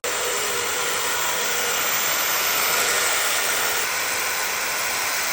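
A power tool running steadily at constant speed, a dense even noise that cuts in suddenly at the start and stops abruptly just after the end.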